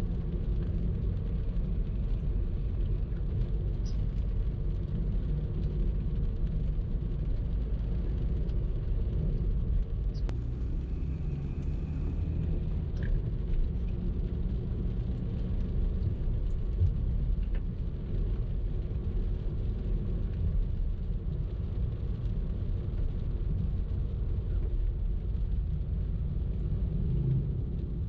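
A car driving in traffic: steady low rumble of engine and tyre noise.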